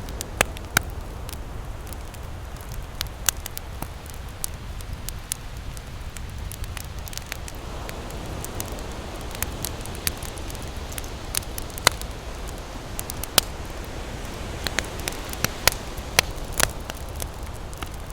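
Wood campfire crackling, with irregular sharp pops and snaps, a few of them much louder than the rest. Under it runs a steady low rumble of ocean waves.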